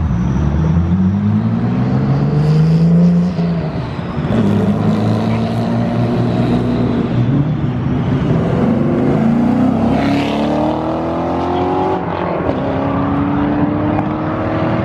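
Car engine accelerating hard, revs climbing; about three and a half seconds in the pitch drops at an upshift, then climbs again through the next gear.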